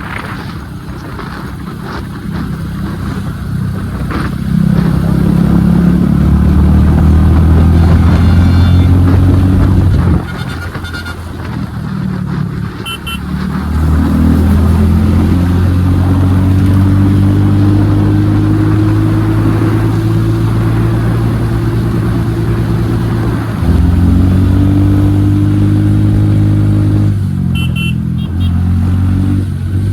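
Royal Enfield Hunter 350's single-cylinder engine through an aftermarket HK exhaust with the dB killer removed, riding under load: a deep exhaust note that climbs slowly in pitch, dropping a few times as gears change.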